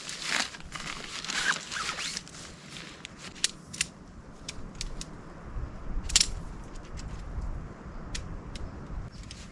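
Tent being pitched by hand: rustling fabric during the first two seconds, then scattered sharp clicks and taps from handling the gear, the loudest about six seconds in.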